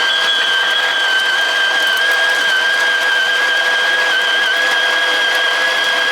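Electric espresso grinder running steadily, grinding coffee beans for espresso, with an even high motor whine over the rush of the grinding.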